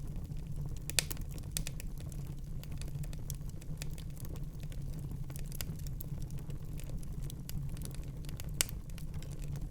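Fire in a fireplace crackling: a steady low rumble of flames with quick irregular snaps and ticks, and two louder pops, one about a second in and one near the end.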